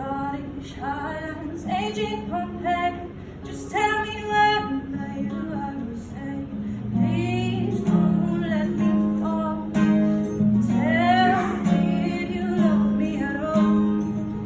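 A female voice singing a melody over a strummed acoustic guitar.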